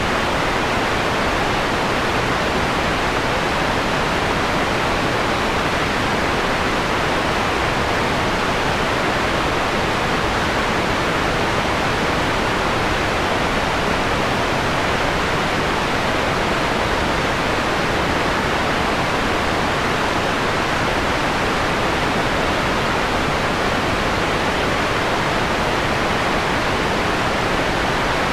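Steady synthetic white noise, filtered so that the highest treble is softened: an even, unchanging hiss partway through being dimmed from a bright to a mellow tone.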